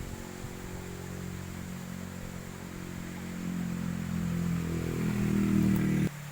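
A motor vehicle's engine running at a steady pitch, growing louder for a few seconds and then cutting off abruptly near the end.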